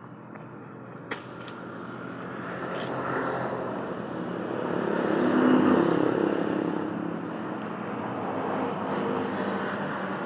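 A motor vehicle's engine passing close by, growing louder to a peak about halfway through and then easing off to a steady running sound.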